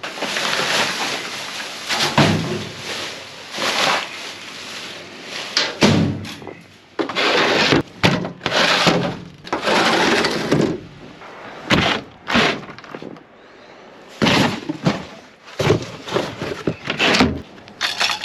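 Rummaging through a dumpster: a run of noisy rustles and knocks as items are handled and moved about, in bursts of about a second or less with short gaps, with several sharp knocks.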